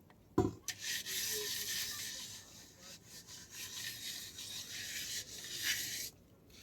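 A knock, then a continuous scratchy rubbing or scraping noise for about five seconds that stops suddenly near the end.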